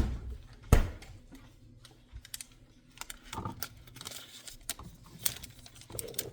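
Two sharp knocks about three-quarters of a second apart, then scattered light clicks and rustles of kitchen handling as a bag of shredded mozzarella and a measuring cup are worked.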